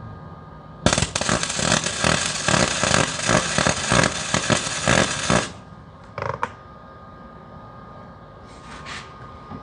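Electric arc welding: about four and a half seconds of loud, irregular crackling and sputtering from the arc, starting and stopping abruptly, with two brief short sounds afterwards. The arc isn't burning right, which the welder puts down to a poor ground clamp.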